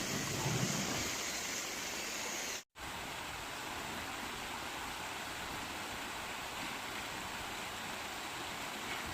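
Steady rushing noise of running water. The sound cuts out completely for a split second about two and a half seconds in, then the same rushing resumes.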